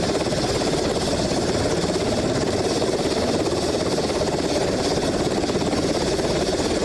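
Helicopter running, a loud steady engine-and-rotor noise with a rapid fine pulsing.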